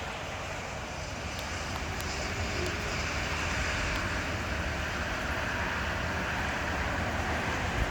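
Steady urban engine noise: a low rumble and hiss of distant motor traffic or an aircraft, slowly growing louder.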